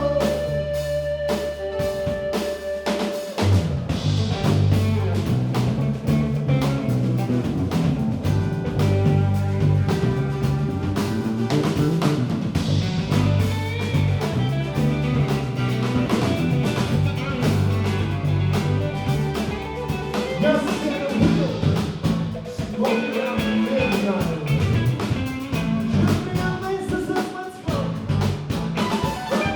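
Live rock band playing a song: steady bass line, busy drum kit and guitar.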